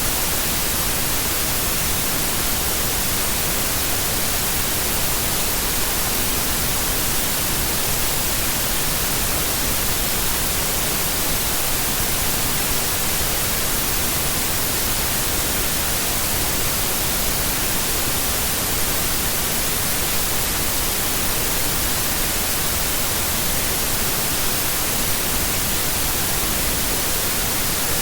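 Steady white noise: an even, unbroken hiss, strongest in the high end, with no change in level.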